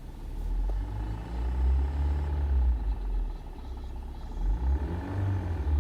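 Suzuki Swift 1.3 L idling in neutral with the clutch released, a light knocking rattle from the manual transmission under a low rumble that swells and fades twice. The knock stops when the clutch is pressed and no gear is engaged, so the owner takes it for a transmission bearing rather than gear noise.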